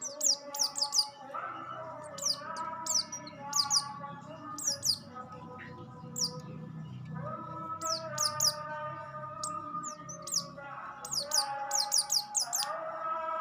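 A sogok ontong songbird singing rapid clusters of high, quick falling chirps in repeated bursts, its song filled with Oriental white-eye (pleci) phrases. Beneath the chirps runs a steady set of lower held tones that shift pitch every few seconds.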